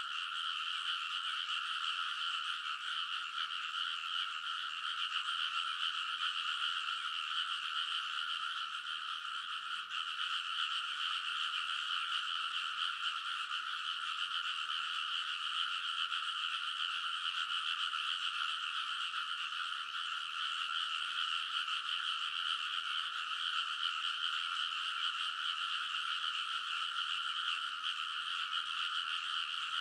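A chorus of many frogs in a rice paddy, calling all at once in a dense, unbroken wall of croaks that stays steady throughout.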